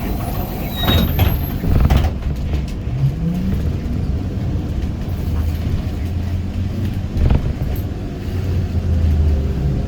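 ZiU-682G trolleybus running with a steady low rumble. Several sharp knocks and rattles come about one, two and seven seconds in, and a short rising tone sounds around three seconds in.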